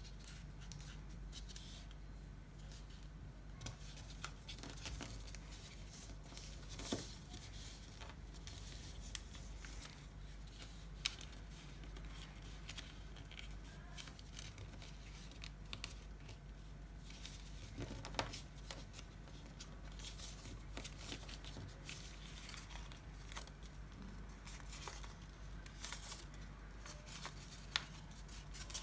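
A sheet of paper being folded and creased by hand: faint rustling with scattered sharp crinkles and taps, over a steady low hum.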